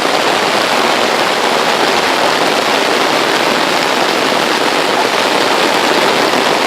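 Heavy rain coming down, a dense, steady hiss of a downpour.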